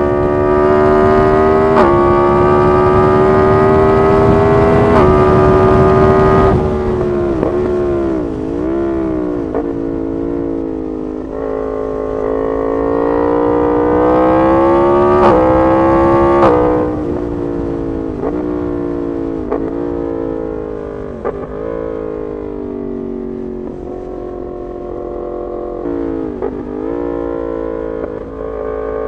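Yamaha MT-10 SP's crossplane inline-four through an SC Project exhaust, pulling hard through the gears with quick upshifts, then easing off about six seconds in. A second hard pull follows with two more upshifts marked by sharp pops, then the engine settles back to part throttle with brief dips and recoveries in revs.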